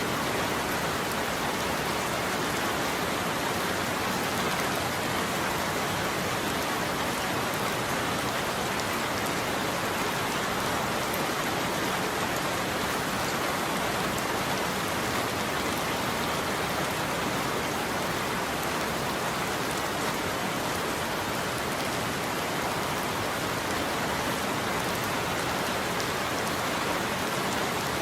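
Steady heavy rain falling: an even, unbroken hiss with no thunderclaps.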